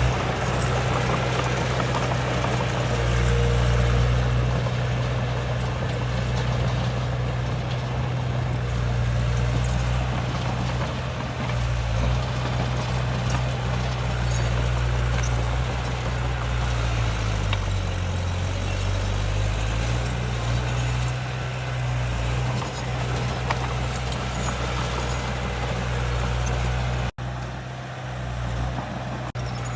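Heavy diesel earthmoving engine running steadily at a low pitch. Its speed sags and then picks back up about seventeen seconds in, and the sound cuts out for an instant near the end.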